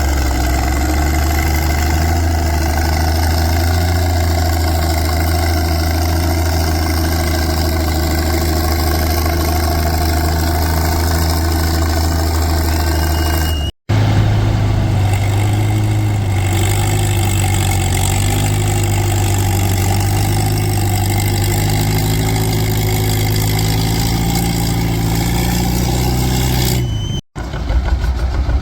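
Antique farm tractor engine running steadily at a low, even pitch, as in a stone boat pull. The sound cuts out abruptly twice, and each time it resumes at a slightly different engine pitch.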